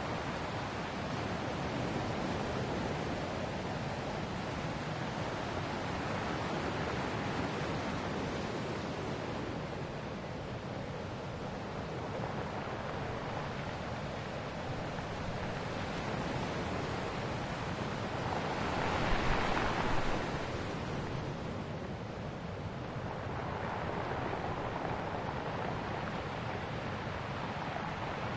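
Ocean waves washing onto the shore in a steady rush, one wave breaking louder about two-thirds of the way through.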